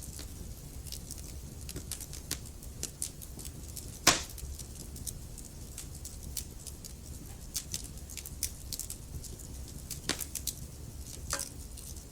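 Logs burning in a fireplace, crackling with many small snaps and a louder pop about four seconds in, over a low steady rumble.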